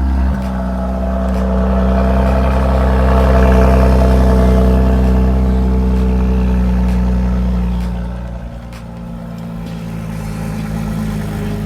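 2017 Bentley Bentayga's twin-turbo 6.0-litre W12 engine running at a raised fast idle right after a cold start. About eight seconds in it drops to a lower, quieter idle.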